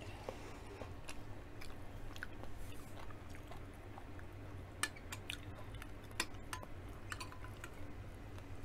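A person chewing a mouthful of food, with scattered short, sharp clicks over a steady low hum.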